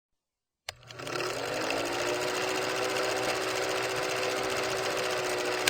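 A small motor starts up and runs steadily with a fast, even rattle, its pitch rising briefly and then holding, and it cuts off near the end.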